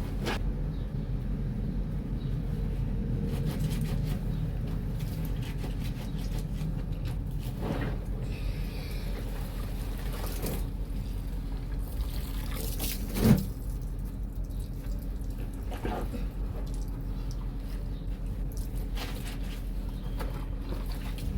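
Laundry being washed by hand in a basin of water: water sloshing and splashing as the cloth is worked, with one sharper knock about 13 seconds in.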